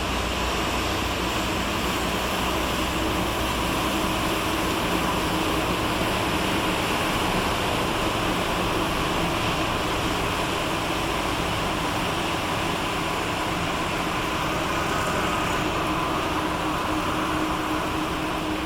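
Steady engine drone of a passing ship, with a constant hum over the rush of noise.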